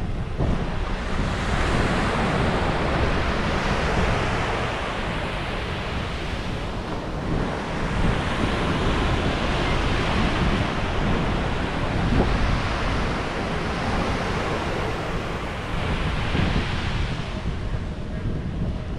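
Ocean waves breaking and washing on a beach, the surf swelling and easing every few seconds, with wind rumbling on the microphone.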